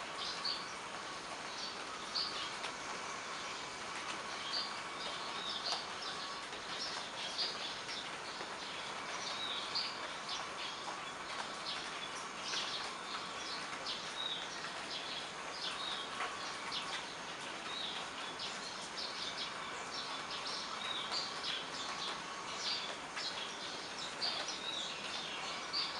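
Steady rain falling, with small birds chirping over it: many short, high chirps come and go throughout.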